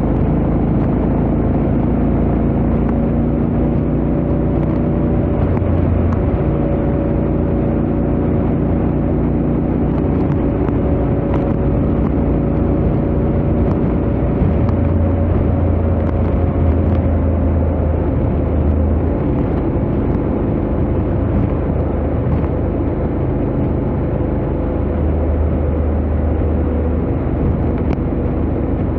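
Honda X-ADV 750's parallel-twin engine and stock exhaust at a steady highway cruise, the engine note drifting only slightly in pitch, under a heavy low rumble.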